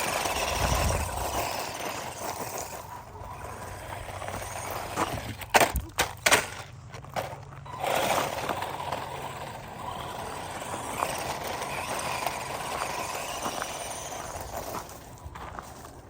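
Redcat Volcano 16 electric RC monster truck driving over rough ground, its motor and tyres making a steady noise. A few sharp knocks come in quick succession about five to six seconds in.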